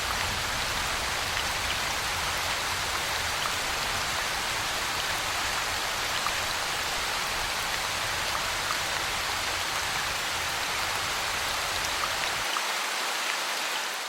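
Rain falling steadily: a dense, even hiss with single drops ticking here and there. The low rumble drops away near the end and the sound fades out.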